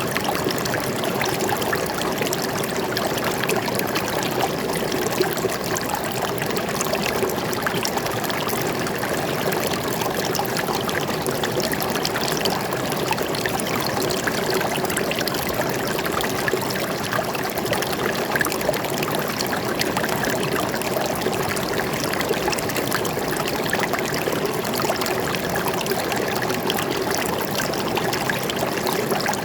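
Stream water flowing and trickling steadily, a continuous splashing and babbling rush.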